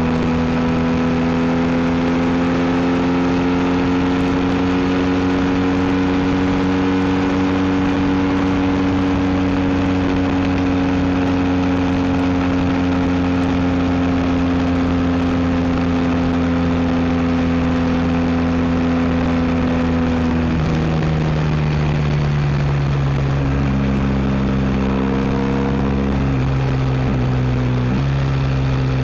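BMW R1250 GS boxer-twin engine running through an Akrapovic exhaust under way, its note holding steady and slowly easing. About two-thirds in the pitch drops suddenly, then shifts up and down in steps a few times.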